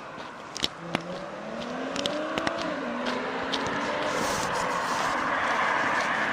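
A car approaching on the road: engine hum with a wavering pitch and tyre noise growing steadily louder.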